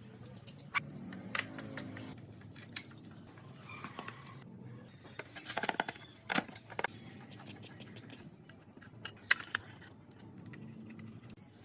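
Hands handling small parts and tools: scattered light clicks and metallic clinks, a quick run of them around the middle and one sharp click a little past nine seconds in.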